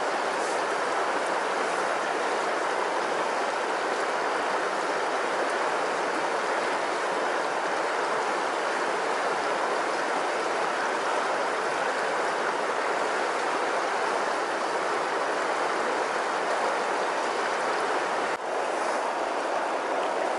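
Steady rushing of a flowing river, the Savinja, with one brief dip and click about eighteen seconds in.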